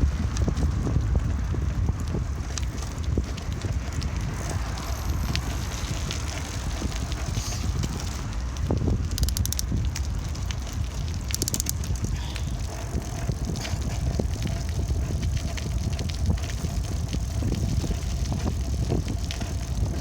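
Bicycle being ridden, heard from on the bike: a steady low rumble of wind on the microphone and tyres on the ground, with many small clicks and rattles throughout.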